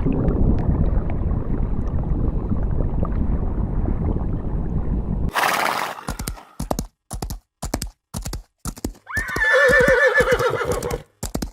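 Horse: a low rumble for about five seconds, then hooves clip-clopping about twice a second, and a wavering whinny lasting about two seconds near the end.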